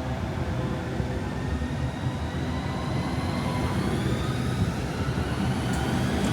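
Electric train running at a station: a low rumble that grows steadily louder, with a faint whine rising in pitch.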